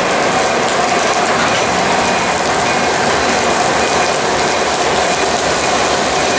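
Steady mechanical rattling and clatter of a moving passenger rail car, heard from inside the car.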